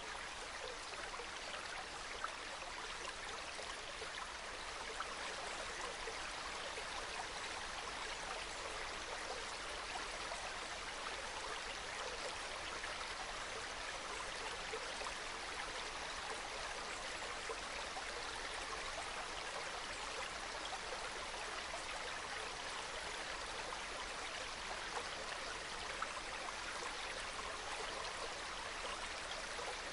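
Small mountain stream trickling and babbling over rocks, a steady soft flow of water with small splashes.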